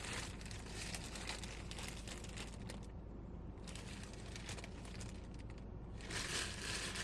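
Plastic packaging crinkling and rustling as packages are handled, in uneven runs of crackles with a short lull partway through.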